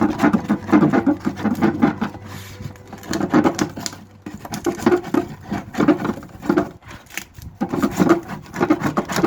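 Rapid, irregular rubbing and scraping strokes of a hand tool working a surface, in several runs with brief pauses between them.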